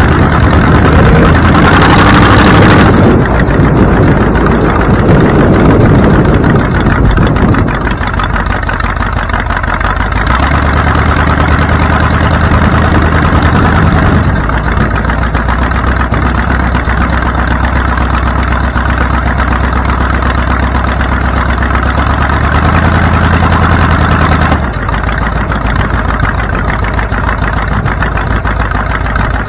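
Car engine running, louder and rougher for the first several seconds, then settling into a steady idle whose note shifts briefly near the end.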